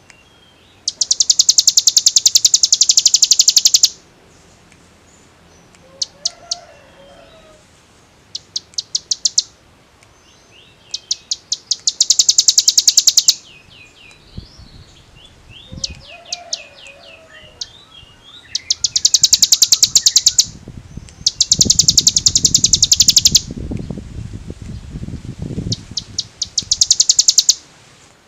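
A ciblek gunung, a prinia, singing its drilling 'ngebren' song. It gives loud, very fast high trills in bursts of up to about three seconds, about eight of them, with softer chirps between. A low rumbling noise runs under the song in the second half.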